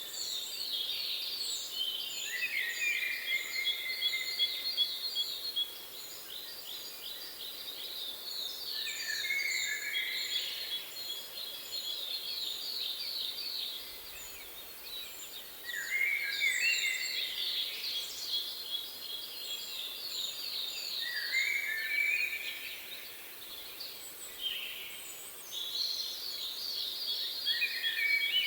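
Songbirds singing: phrases of fast trilled notes, repeated every few seconds, each stepping down in pitch at its end, over a row of short, very high chirps at an even pace.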